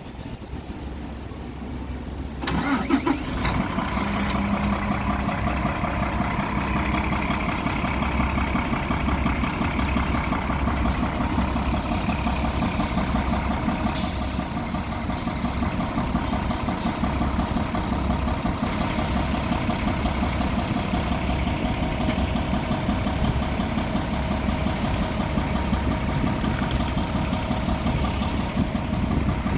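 Mitsubishi Fuso Aero Star city bus's diesel engine starting: after a couple of seconds of low rumble it catches with a sudden jump in loudness, then settles into a steady, clattery idle. A brief sharp noise cuts through about fourteen seconds in.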